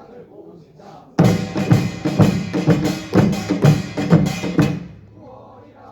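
Korean pungmul percussion ensemble playing a short, loud burst of rapid drum and gong strikes that starts about a second in and stops after about three and a half seconds.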